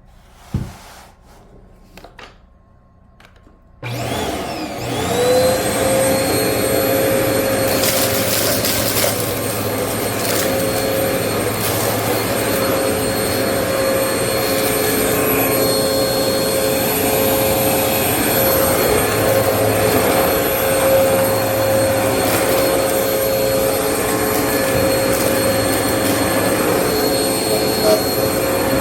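Vacmaster UC0101 bagless upright vacuum, set for bare floor, switched on about four seconds in after a few handling clicks: its motor spins up with a rising whine and settles into a steady, loud running whine with a hum beneath. A brief louder crackle comes a few seconds after start-up.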